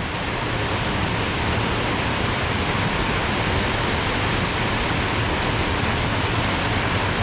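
Waterfall cascading down over rocks, a steady, unbroken rush of falling water.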